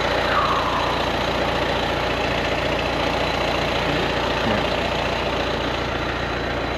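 A large vehicle engine idling steadily.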